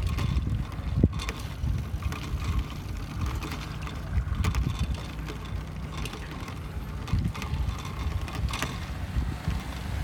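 Wind rumbling on a handheld phone's microphone while cycling, with scattered clicks and knocks, the sharpest about a second in.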